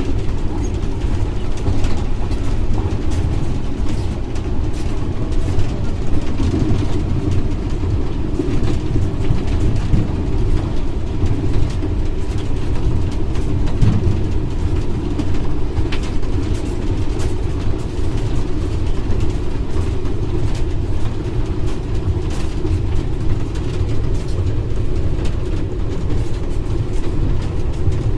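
Steady running noise inside the cab of a GMU-30 diesel-electric locomotive at speed: a continuous low engine and rail rumble, with scattered clicks.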